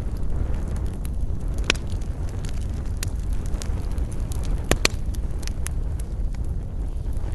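Wood campfire crackling, with scattered sharp pops over a steady low rumble; the loudest are a pop about two seconds in and a quick pair of pops near five seconds.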